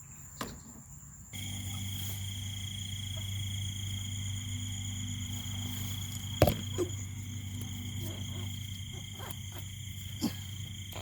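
Night-time chorus of insects at a pond, steady high-pitched trilling with a low steady drone beneath, starting suddenly about a second in. A few soft knocks near the middle and end.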